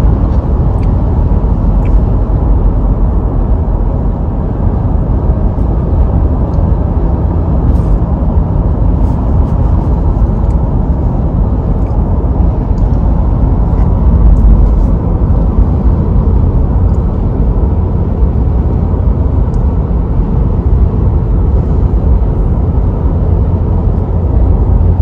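Steady road and engine noise inside a moving car's cabin, a deep, even noise with a few faint clicks.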